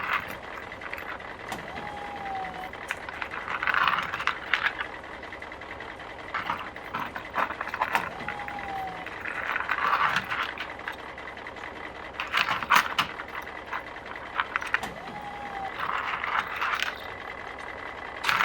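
Toy construction truck worked by hand as it scoops and dumps play dough: repeated scraping passes every few seconds, with scattered clicks and rattles of its moving parts.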